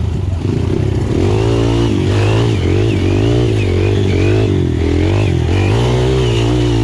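Dirt bike engine revving up and down, its pitch rising and falling about once a second.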